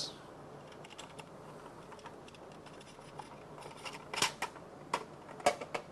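Small metal drill bits being handled, giving a few light clicks and taps spaced irregularly, the sharpest about four seconds in, over faint room hiss.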